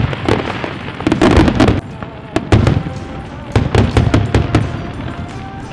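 Fireworks going off: a fast, irregular run of sharp bangs and crackles, some in quick clusters.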